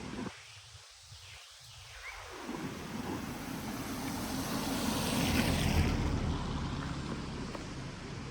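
Rain falling steadily on a village street, with a vehicle passing on the wet road, swelling to its loudest a little past halfway and then fading.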